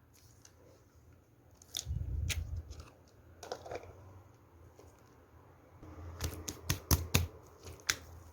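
Slime being squeezed and poked by hand: a dull low squish about two seconds in, then a quick run of sharp clicky pops near the end.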